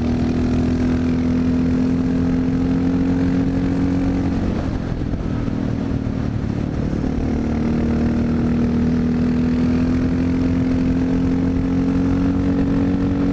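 Honda XR650L's single-cylinder four-stroke engine pulling hard under load, its pitch climbing steadily for about four seconds, dipping briefly near the middle, then climbing again to the end.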